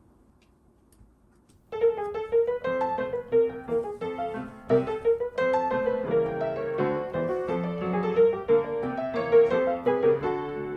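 Background piano music, starting about two seconds in after a near-silent moment, with a bright melody over lower accompanying notes.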